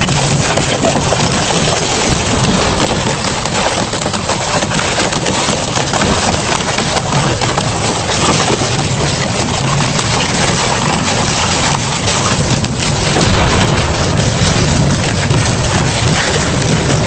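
Double-shaft industrial shredder running loaded, its blades tearing and crunching metal in a dense, continuous crackle over the steady drone of the drive.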